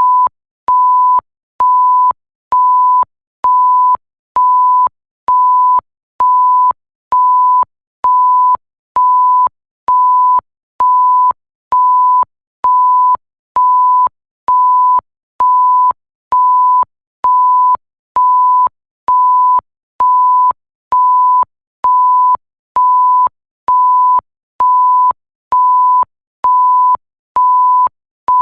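Electronic bleep sound effect: a single steady mid-pitched tone, each bleep about half a second long with a short gap, repeating evenly a little faster than once a second.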